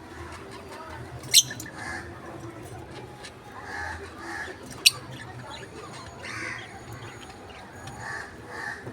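Small pet parrots chattering softly, with two sharp, shrill squawks: one about a second and a half in, another about five seconds in.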